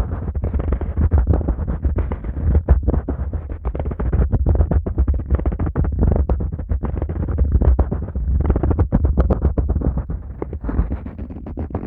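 Fingers rubbing and massaging the ears of a Neumann KU100 dummy head microphone, heard from inside its ears. The rubbing goes on without pause, with a heavy low rumble and a dense run of small crackles.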